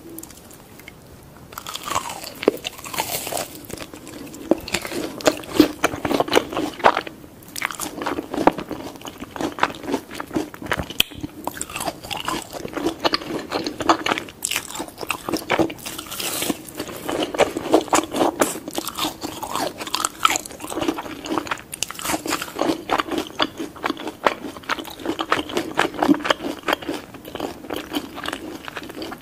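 Crunching, biting and wet mouth clicks from a toddler gnawing on the crispy skin of a roast pig's head (lechon). The crackling comes as a dense, continuous run of short clicks, starting about a second and a half in.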